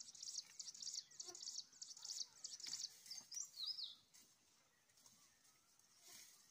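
Small birds chirping in rapid, high trills, ending about three and a half seconds in with a few sliding notes; after that only faint background remains.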